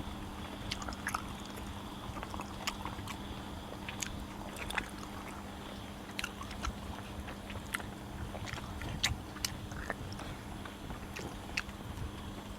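A person chewing and biting beef close to the microphone: irregular wet clicks and smacks scattered throughout, over a steady low hum.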